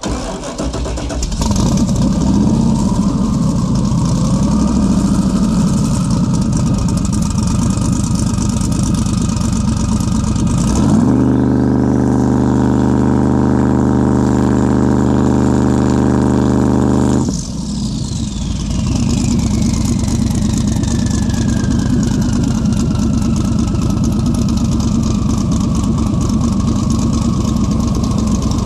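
Twin-turbo 383 LS V8 idling, then revved at about eleven seconds and held at a dead-steady higher rpm for about six seconds while a high turbo whine climbs. It drops back to idle and the turbo whine winds slowly down in pitch.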